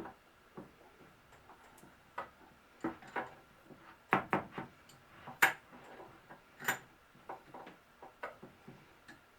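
Irregular light clicks and knocks of wood and tools being handled, a dozen or so separate hits, the sharpest about five and a half seconds in.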